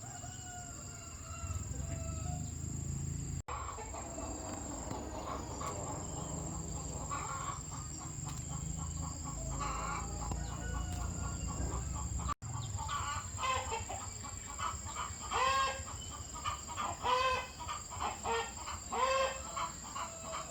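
Chickens clucking: a run of short, repeated calls that gets louder and denser in the last several seconds.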